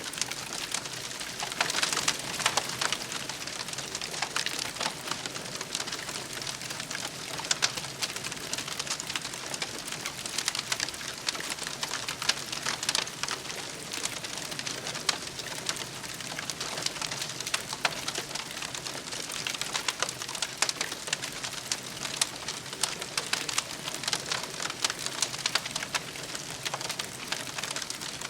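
Campfire burning with a steady hiss and dense, irregular crackles and pops from the burning wood.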